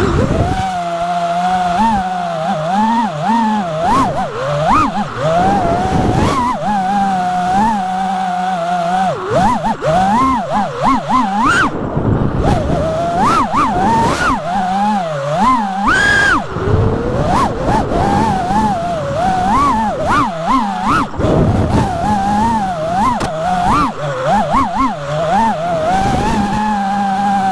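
An FPV drone's brushless motors whine, their pitch swinging up and down quickly and constantly with the throttle during freestyle flying.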